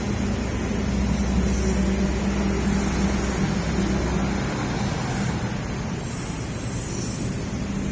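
A train running at the station platform, a steady low mechanical hum with a pitched drone that is louder in the first half and then eases off slightly.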